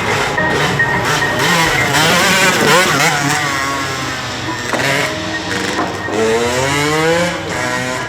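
Motorcycle engines revving, their pitch rising and falling repeatedly, with a long rising rev about six seconds in.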